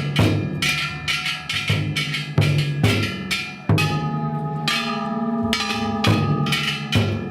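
Festival taiko drum and kane (hand-held bronze gongs) beaten together: loud metallic clanging strikes that ring on, over deep drum beats, several strikes a second without pause.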